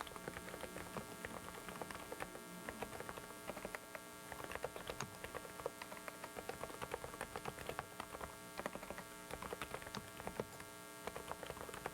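Typing on a Dareu mechanical keyboard: quick, irregular key clicks several a second, over a steady electrical hum.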